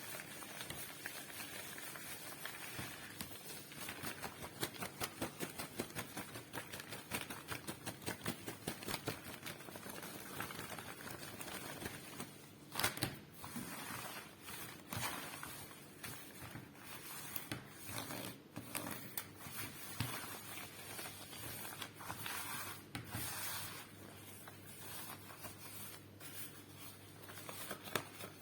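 Rubber gloves rustling close to a microphone as gloved fingers rub, tap and scratch. For the first half it is a fast, dense crackle of tiny taps and rubs. It then turns to slower, louder, irregular swipes and strokes.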